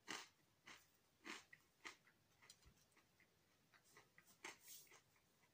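Faint crunchy chewing of a crisp pizza base, mouth close to the microphone: a chew about every half second for the first two seconds, then softer crackles and two more chews near the end.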